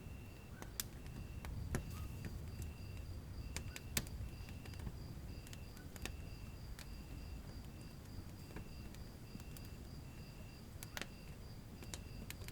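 Wood fire burning in a fireplace: a steady low rumble of flames with scattered sharp crackles and pops, the loudest about a second in, around four seconds in and near eleven seconds. A faint high chirp repeats a little over once a second throughout, with a faster, higher steady pulsing behind it.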